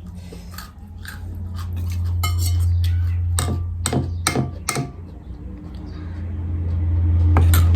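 Tableware clinking during a meal: a run of sharp clinks about two to five seconds in, over a low steady rumble that swells twice.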